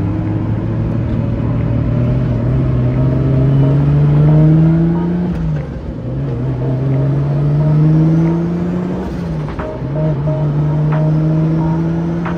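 1JZ inline-six engine of a Nissan 240SX (S14), heard from inside the cabin, pulling at part throttle. Its pitch climbs gently, drops with an upshift about five and a half seconds in and again about nine seconds in, then holds fairly steady.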